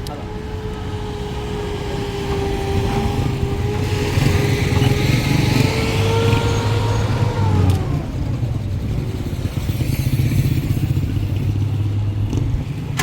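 Road vehicle driving, its engine running with a steady low rumble. A pitched whine rises slightly and then slides down and fades about eight seconds in.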